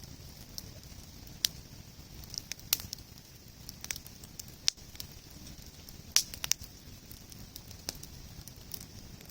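Wood bonfire crackling, with irregular sharp pops about every second; the loudest comes about six seconds in.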